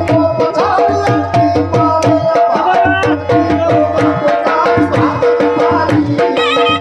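Gujarati folk music played live: fast, steady dhol drumming under held tones and a gliding reed melody from a sarnai.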